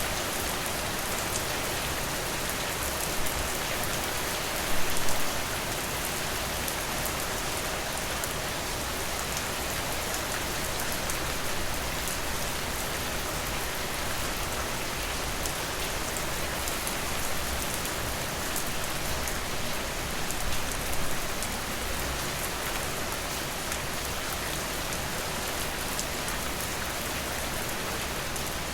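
Steady rain falling, an even hiss of drops, with two brief louder spells, about five seconds in and again past twenty seconds.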